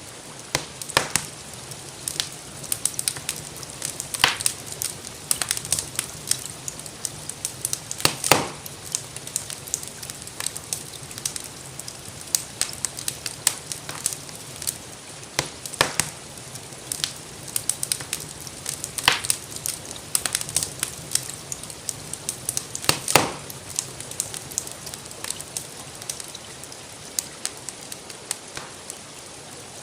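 Wood fire crackling in a fireplace, with irregular sharp pops of varying loudness, a few louder ones standing out, over a steady hiss of rain.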